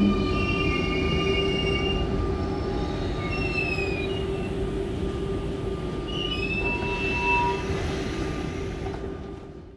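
RER C double-deck electric train slowing into the platform, its traction equipment humming steadily under a rumble, with short high-pitched squeals several times as it brakes to a stop. The sound fades out near the end.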